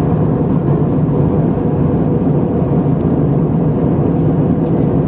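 Airbus A320 airliner's engine and airflow noise heard inside the passenger cabin: a steady, even low rumble.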